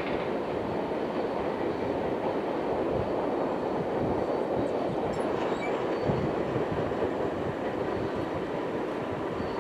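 Freight cars of a manifest train rolling past, a steady rumble of wheels on rail with a few brief low knocks.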